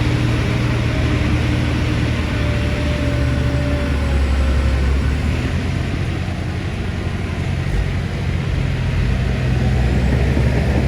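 Heavy construction-machine diesel engine running steadily under load, a deep rumble with faint wavering whines over it, easing off slightly midway and swelling again near the end.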